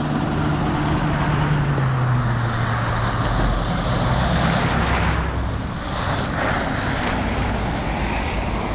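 Road traffic on a snowy city street: a vehicle's engine hums low and steady, slowly dropping in pitch, under a hiss of tyres on the snowy road that swells about halfway through and then eases.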